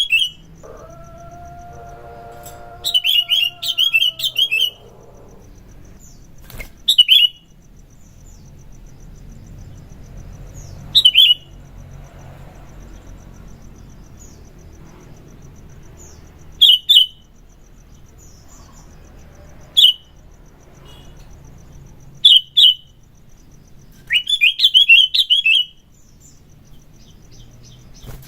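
Sooty-headed bulbul (kutilang) singing in short, loud bursts of sharp, ringing chirps. The bursts come every few seconds, some single and some quick runs of notes.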